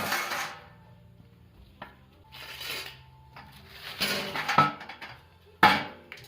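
Steel pail-can stove being handled: several separate bouts of metal clattering and scraping, with short quiet gaps between them.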